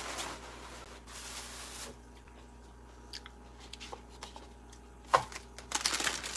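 A person biting into and chewing green grapes close to the microphone, with small handling clicks and rustles; one sharper click about five seconds in.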